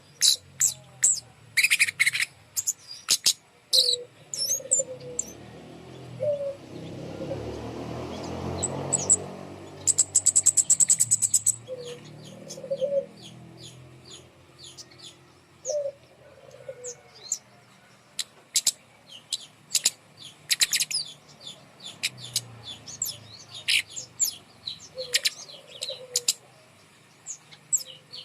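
Scarlet-backed flowerpecker (kemade) calling: a steady series of sharp, high-pitched ticking chirps, with a fast trill of ticks about ten seconds in. A few lower-pitched calls come in between, and a low rumbling noise swells and fades around the middle.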